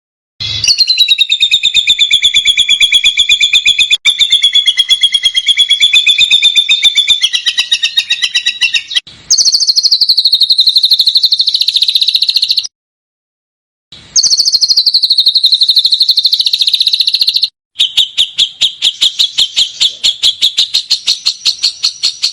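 Recorded songbird song of the kind used as masteran: long, loud trills of very rapid high notes, cut into several runs by brief silent gaps. Some runs open with a short falling note, and the last run slows to about seven or eight notes a second.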